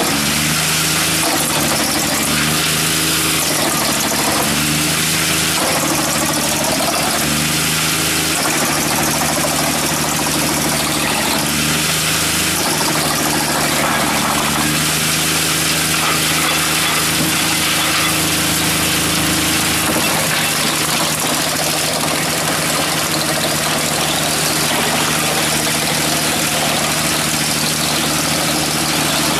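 Skorpion 280 SDBG drum wood chipper running, its three-cylinder liquid-cooled diesel engine and spinning drum giving a loud, steady machine noise with a dense hiss. The engine note shifts up and down several times.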